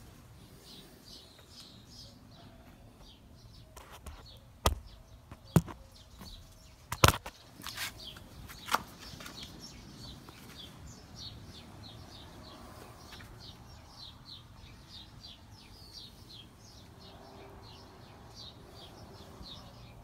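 Birds chirping in short, high, repeated notes throughout, with a few sharp clicks and knocks between about five and nine seconds in.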